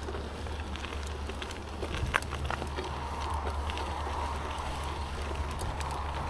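Steady low rumble of wind on the microphone, with scattered light clicks and crackles.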